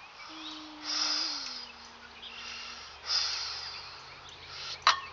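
A weightlifter's forceful, hissing breaths as he strains through a heavy barbell clean, two big exhalations about a second apart and two seconds apart, then a sharp knock near the end.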